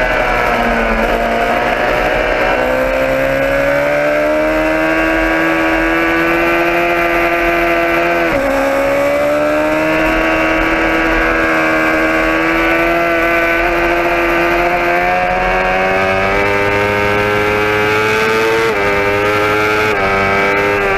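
Motorcycle engine running under way, its pitch slowly rising and falling, with a sudden break in pitch about eight seconds in and another near the end, as at gear changes.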